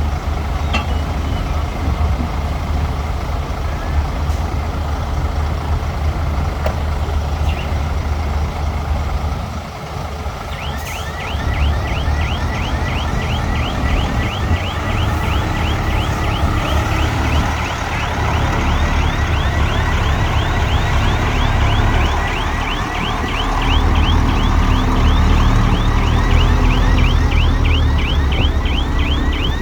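Heavy diesel earthmoving machinery running with a loud, steady low rumble. About a third of the way in, a fast high-pitched chirping starts, about four a second, and keeps going, while the engine rumble grows louder near the end.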